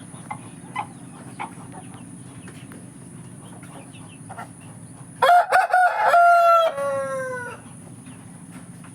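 Aseel rooster crowing once about five seconds in: a loud call of about two seconds that holds its pitch and then falls away at the end. A few soft clucks come before it.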